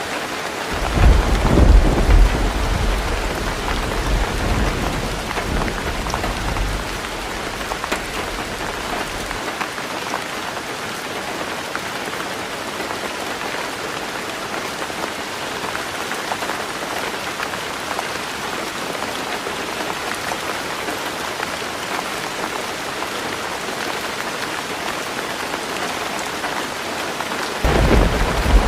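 Heavy rain falling steadily on a tin roof. A thunder roll starts about a second in, loudest at first and rumbling away over several seconds, and a second rumble of thunder begins near the end.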